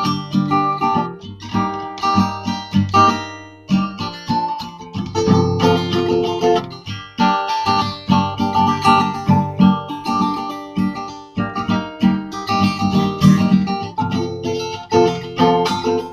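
Acoustic guitar strummed and picked in an instrumental break of a country song.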